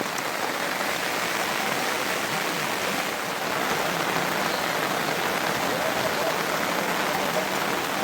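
Heavy monsoon rain falling steadily, a dense even hiss.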